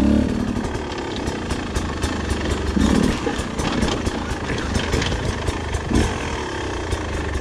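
Beta 250 two-stroke enduro motorcycle engine running steadily at low revs, with scattered light clicks over it.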